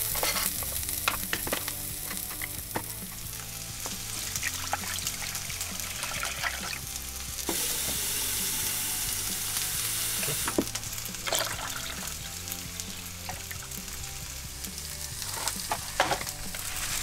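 Sliced onions and poblano peppers sizzling in olive oil in a frying pan, a steady hiss that grows louder for about three seconds in the middle, with scattered clicks of handling. Soft background music runs underneath.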